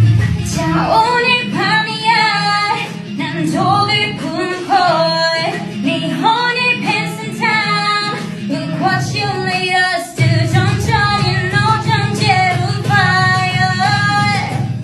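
A woman singing a pop melody over backing music, whose low end comes back in strongly about ten seconds in.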